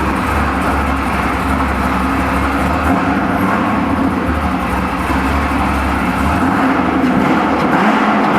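Cammed 7.0-litre LS7 V8 of a 660 hp C6 Corvette Z06 running steadily just after start-up, loud through its exhaust. About six seconds in the deep low rumble fades and the note shifts a little higher.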